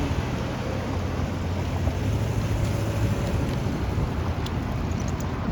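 Steady downtown street noise: a low traffic rumble with a faint engine hum, and a few light ticks near the end.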